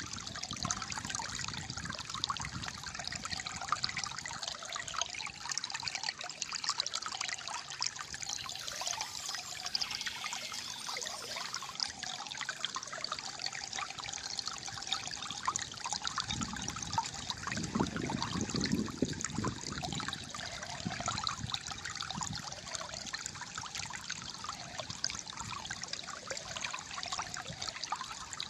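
Shallow flowing water trickling and gurgling steadily, with a deeper gurgle for a few seconds past the middle.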